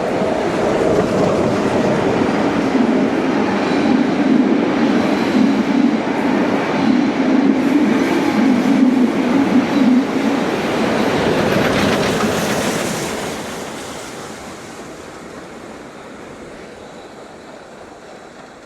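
A train passing through the station, loud for about twelve seconds, then fading as it moves away.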